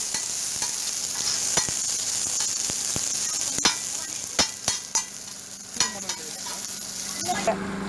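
Mole crabs frying on a flat griddle: a steady sizzle, with a metal spatula clacking and scraping against the griddle about once a second. Near the end the sizzle drops away and a steady low hum takes over.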